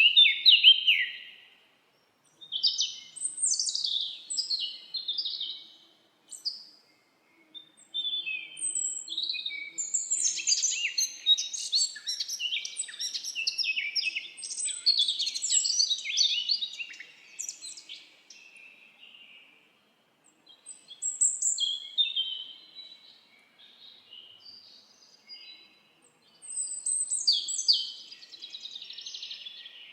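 Several songbirds singing: overlapping chirps, whistled glides and rapid trills, high-pitched, in bursts of a few seconds with short silent gaps between them.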